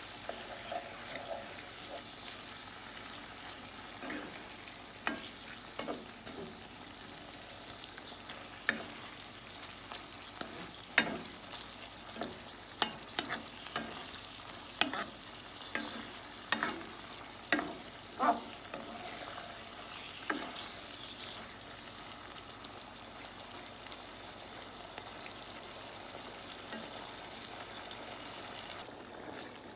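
Pork, tomato and onion frying in a pan with a steady sizzle, while a wooden spatula stirs them, knocking and scraping against the pan. The knocks stop about two-thirds of the way through, leaving only the sizzle.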